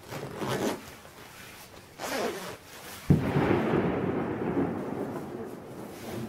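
A sudden boom about three seconds in, trailing off in a long rumble over the next few seconds, after two shorter rushes of noise.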